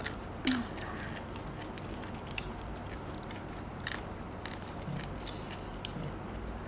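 People eating and chewing, with scattered short clicks and ticks.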